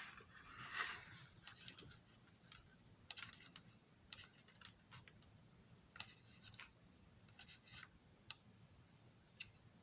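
Faint, irregular light clicks and ticks of small parts being handled during hot-glue work on a model passenger car.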